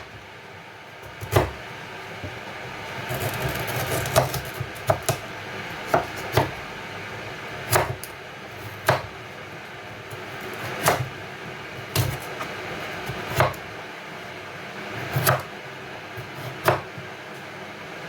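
Knife cutting through pumpkin and knocking on a cutting board, one sharp knock every second or two at an uneven pace.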